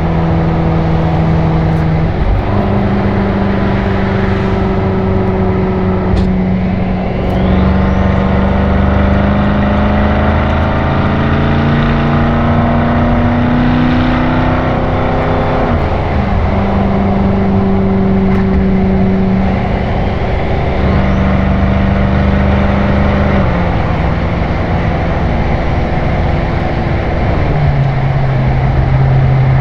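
BMW M6 Gran Coupe's twin-turbo V8 through an Akrapovič Evolution Line exhaust at highway cruise. The exhaust note holds steady with tyre and road noise, rises gradually under throttle in the middle, drops about halfway through, and shifts in pitch a few more times near the end.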